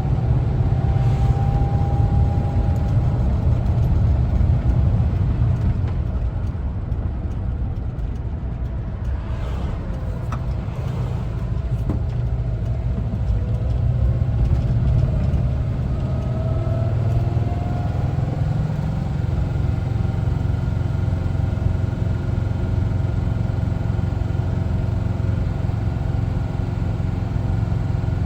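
1974 Volkswagen Westfalia camper's air-cooled Type 4 engine running on the road, a steady low rumble. The engine note eases off for a few seconds in the middle, then climbs again as it picks up speed.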